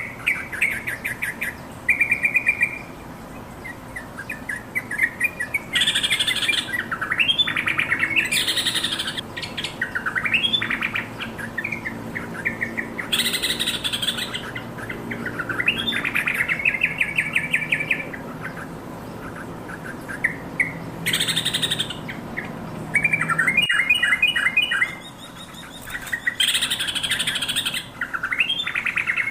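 Yellow-vented bulbul singing: bursts of quick, bubbly chattering phrases one after another with short pauses, the busy calling song of a bird in full voice.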